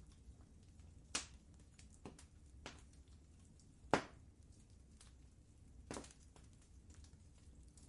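Wood fire crackling in a fireplace: irregular sharp pops and snaps, the loudest about four seconds in, over a low steady rumble.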